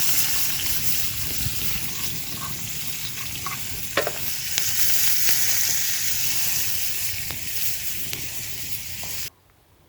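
Food sizzling as it fries in a pan, a steady hiss broken by a few sharp clicks of stirring, cutting off suddenly near the end.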